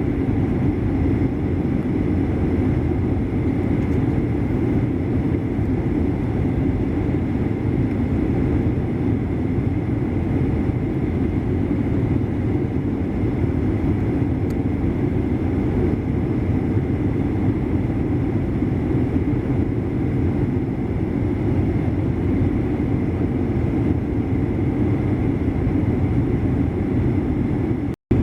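Steady jet cabin noise inside a Boeing 737-800: a constant low roar of engines and airflow with a faint steady whine above it. It cuts out for a split second near the end.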